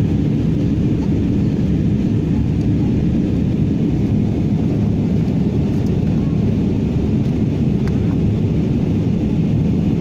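Steady low drone of an airliner cabin, engine and airflow noise, at an even level throughout.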